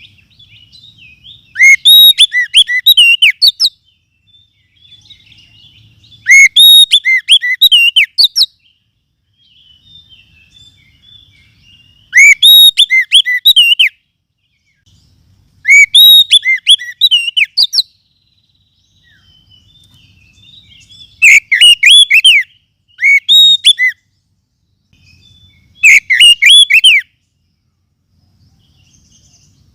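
Oriental magpie-robin (kacer) song played as a loud lure-call recording: six phrases of quick whistled notes, each about two seconds long, repeating every four to five seconds with short pauses between.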